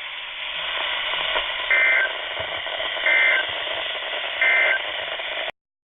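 EAS end-of-message signal over NOAA Weather Radio: three short bursts of warbling digital data tones, about 1.3 seconds apart, over steady radio static hiss. The hiss cuts off abruptly near the end.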